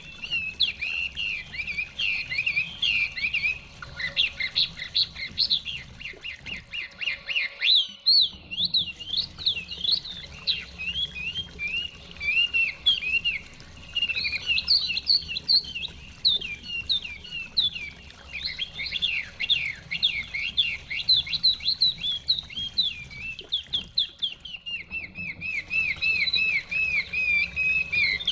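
Chinese hwamei singing a rapid, varied warbling song of high sweeping notes, with a brief break about eight seconds in.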